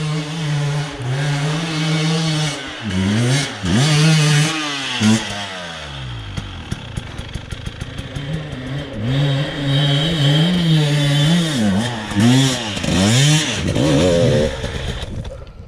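Enduro motorcycle engine under off-road riding, the throttle opened and closed again and again so the engine note rises and falls in repeated revs. In the middle it drops to a lower note with rattling, then revs hard again before cutting away sharply near the end.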